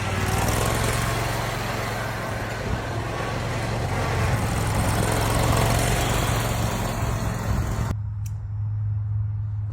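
Motor vehicle engine running steadily with a low hum, under a layer of outdoor noise that cuts off suddenly about eight seconds in, leaving only the hum.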